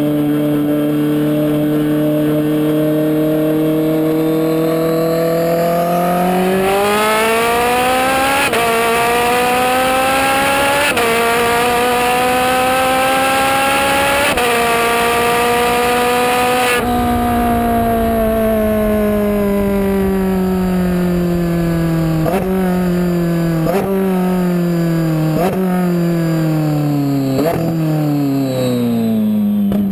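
Twin-turbocharged Ferrari 458 V8 cruising, then accelerating hard through three quick upshifts, each a sudden drop in engine pitch. About two-thirds of the way in the throttle closes, and the engine winds down with a run of downshifts, each marked by a short rev blip.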